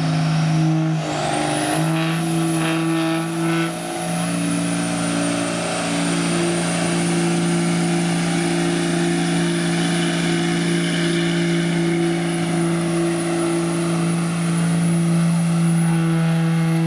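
Diesel pickup truck engine held at full throttle while pulling the sled, a steady loud note with a thin high whine that rises about a second in and then holds.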